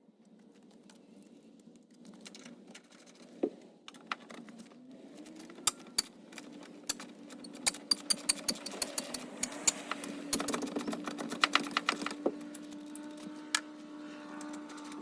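A quick run of sharp clicks and rattles, thickest in the middle, over a steady hum that rises in pitch about five seconds in and then holds.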